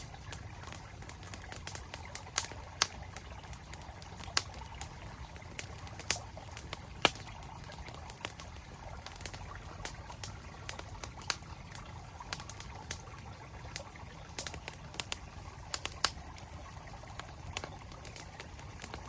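Campfire wood crackling, with irregular sharp pops scattered through, over the steady rush of a flowing stream.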